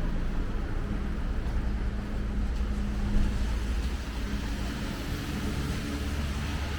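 Street traffic: a motor vehicle's engine humming steadily over a low rumble, with one short knock about three seconds in.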